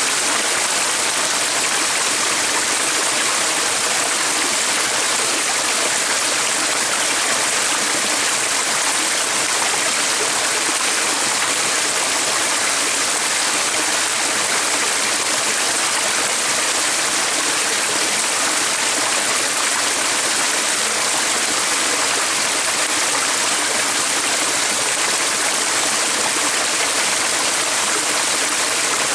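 Steady, unbroken rush of flowing water, like a stream, with its hiss mostly in the upper range.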